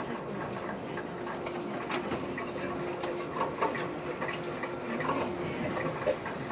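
Inside a moving passenger train carriage: steady running noise with a low hum and scattered light clicks and rattles.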